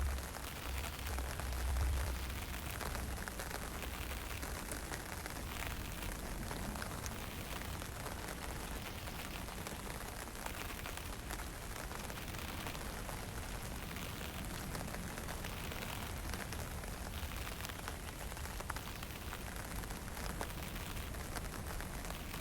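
Steady hiss of fine drizzle and wind, with scattered faint drop ticks; low wind buffeting on the microphone rumbles in the first two seconds, then eases.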